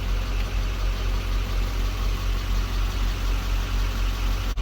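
Duramax V8 turbo-diesel in a Chevrolet Express van idling steadily at operating temperature. The sound drops out for an instant near the end.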